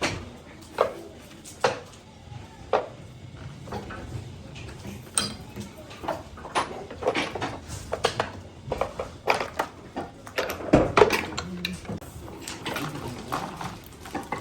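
Irregular metallic clinks and knocks of metal parts and tools being handled, a series of sharp strikes at uneven intervals that come thickest near the end.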